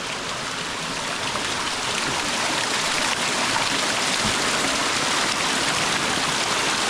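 Water rushing steadily in a forest stream, getting a little louder as it goes.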